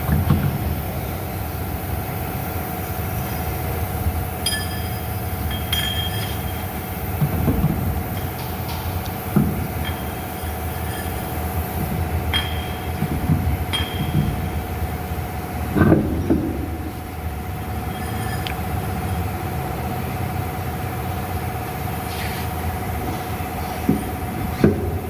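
Steady low mechanical rumble with a constant hum, broken by scattered short metallic clinks, like tools striking steel wheel parts. A louder knock comes about sixteen seconds in.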